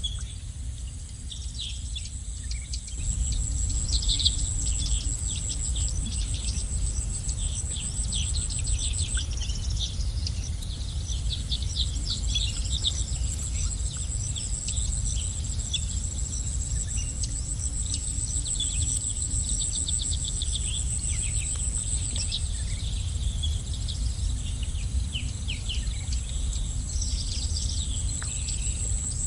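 Small songbirds chirping and twittering in quick runs of short high notes, over a steady high-pitched insect trill and a low background rumble.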